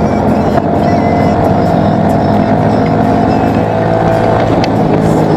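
Honda Super Cub's single-cylinder four-stroke engine running through a BEAMS aftermarket muffler while riding, with a steady exhaust note that drops slightly in pitch near the end.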